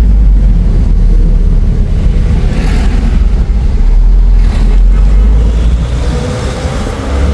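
Steady low rumble of a car driving, engine and road noise together, with wind blowing on the microphone. A faint engine note rises slightly near the end.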